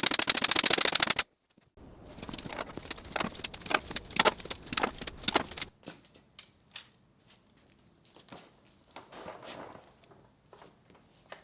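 MIG welder crackling rapidly and evenly, cutting off abruptly about a second in. Irregular clicks and knocks of metal being handled follow, thinning to scattered light taps.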